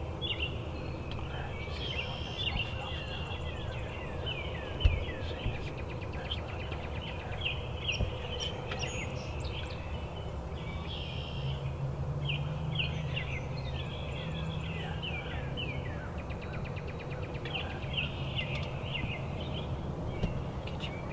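Dawn chorus of songbirds: many short chirps, falling whistled notes and a few quick trills, over a steady low rumble, with one sharp knock about five seconds in.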